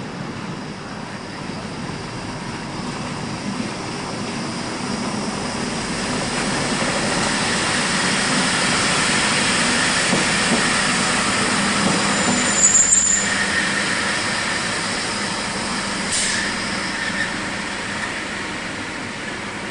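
Electric locomotive-hauled passenger train running past a station platform, its noise swelling to a peak mid-pass and then fading. A short high-pitched wheel squeal comes just past the middle.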